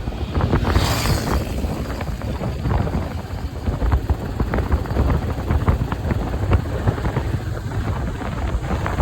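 Wind blowing across the microphone: a constant low rush with crackles, and a brief high hiss about a second in.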